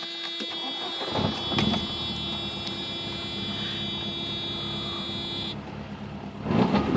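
Mercedes-Benz 190E Cosworth 16-valve four-cylinder being cold-started. A steady high electric whine and hum sound while the starter cranks from about a second in, and the engine catches and gets much louder near the end. It is a rough cold start.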